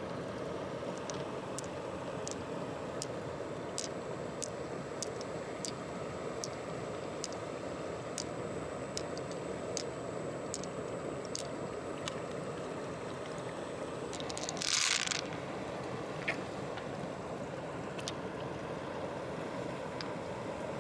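Steady flowing water with scattered light clicks, and a brief louder hiss about fifteen seconds in.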